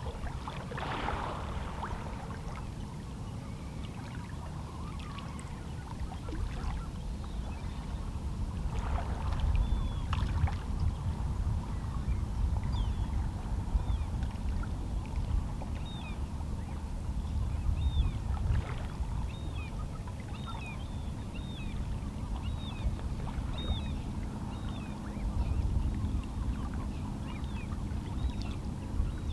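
Small, calm sea waves lapping and splashing against shoreline rocks, with a steady low wash underneath. Through the middle, distant seabirds call over and over in short high chirps.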